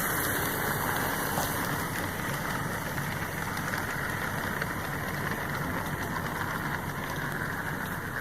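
HO scale model train running on its track: a steady whir and rattle from the locomotive's electric motor and the wheels on the rails, with many small clicks. The locomotive has no sound unit, so this is only the mechanical running noise.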